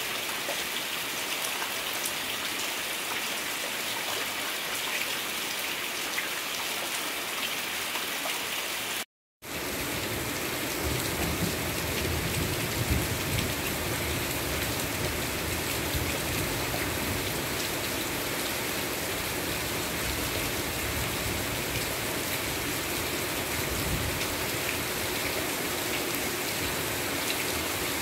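Heavy rain pouring steadily, a dense even hiss of drops on leaves and wet ground. About nine seconds in the sound cuts out for a moment, then resumes fuller, with more low rumble.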